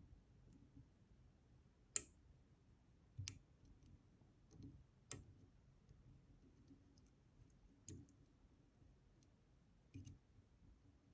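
Faint, sharp metallic clicks from picking a DOM Diamant disk detainer lock, as a pick tool turns its discs against tension while searching for a disc's gate. There are about five distinct clicks at irregular intervals, the loudest about two seconds in, with fainter ticks between them.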